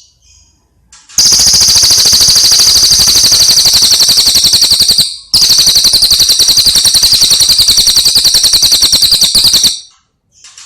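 A bird giving two long, very loud rapid rattling trills, each about four seconds, separated by a brief break, with a few short chirps before them.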